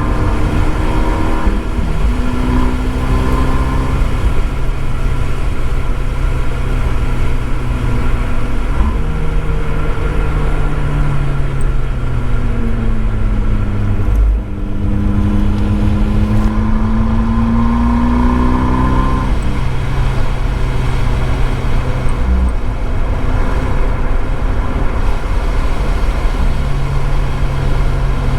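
Abarth 595 Esseesse's turbocharged 1.4-litre four-cylinder through its Akrapovic exhaust, heard from a microphone in the boot while driven hard on track. Engine pitch climbs and falls with throttle and gear changes, with a brief lift about halfway through, over a steady hiss of tyres and spray on a wet surface.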